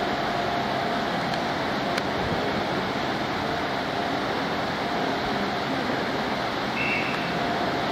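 Class 150 Sprinter diesel multiple unit creeping into the platform: a steady diesel engine and running-gear noise, with a short high squeal about seven seconds in.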